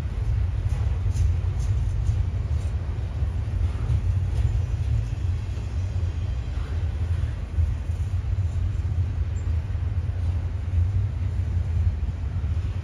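Norfolk Southern double-stack intermodal freight train rolling past close by: a steady low rumble of the container cars on the rails, with a few faint clicks near the start.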